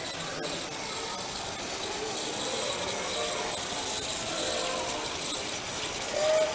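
Battery-powered toy trains running along a plastic track, their small gear motors giving a steady, ratchety clicking whir.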